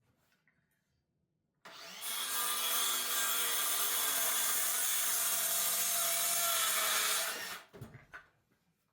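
Power saw cutting through wood: a steady noise that starts a little under two seconds in, runs for about six seconds and then stops.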